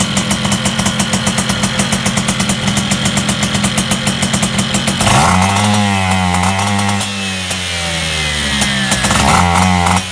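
Small two-stroke Piaggio moped engine running, with a fast, even pulsing for the first half. About halfway in it changes to a steadier, deeper note.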